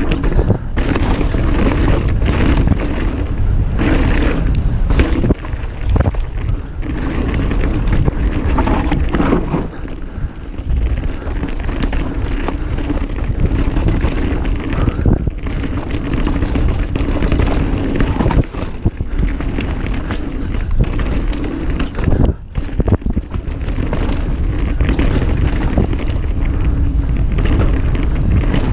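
Mountain bike riding fast down a dirt trail, heard through a mounted action camera: wind buffeting the microphone and tyres rolling over the dirt, with the bike rattling and knocking over bumps again and again.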